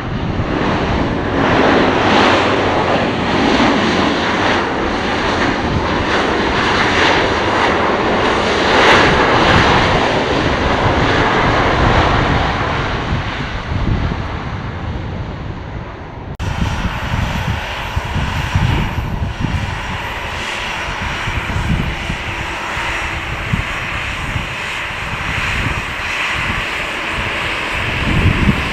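Airliner engines running loud and steady, a rushing noise with no clear pitch. About two-thirds of the way through, the sound cuts off suddenly to a quieter engine noise with uneven low rumbling.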